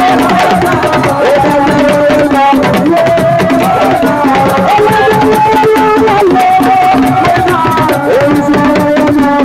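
Assiko band music: fast, dense hand-drum percussion under a held melody that slides between notes.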